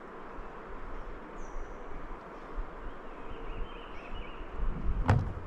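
Steady rushing of river water over rocks, with a few faint bird calls above it and one sharp click near the end.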